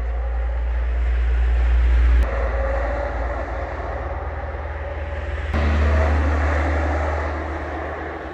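Semi trucks driving past: a heavy diesel drone with tyre and road noise. The sound cuts abruptly to a new pass about two seconds in and again about five and a half seconds in.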